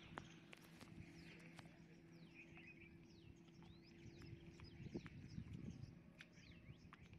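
Faint bird calls: many short, quick downward chirps, with scattered light clicks and a steady low hum that stops about five seconds in.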